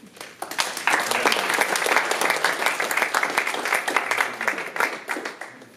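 Audience applauding, swelling within the first second and dying away near the end.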